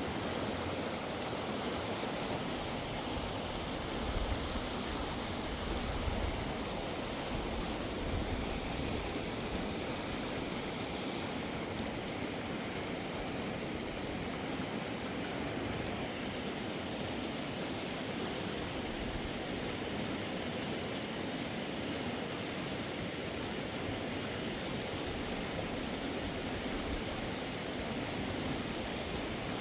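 Fast mountain river rushing steadily, an even roar of water with a few brief low rumbles about four to six seconds in.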